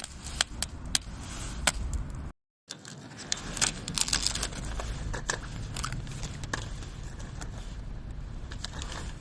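Wood fire crackling, with sharp irregular pops and snaps over a steady low rumble; the sound drops out briefly about two and a half seconds in, then the crackling resumes.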